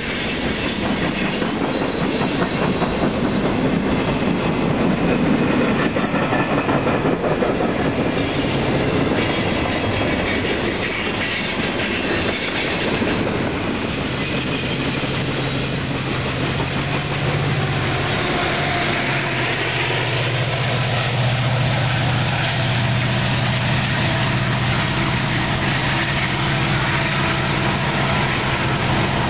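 Freight train cars rolling past, their wheels clicking over the rail joints, with some squeal from the wheels. A steady low hum comes in about halfway through.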